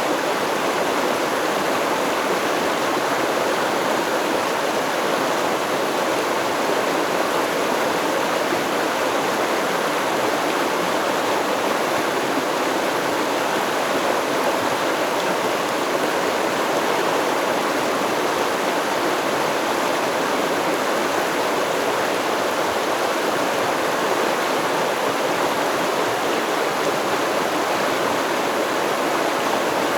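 Stream water flowing over rocks: a steady, even rush and babble that never changes.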